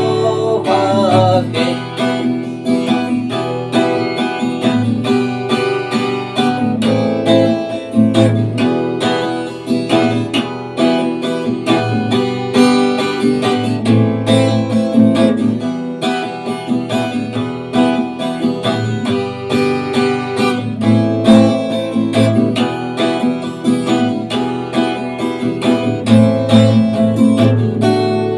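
Acoustic guitar strumming chords steadily in a song's instrumental passage.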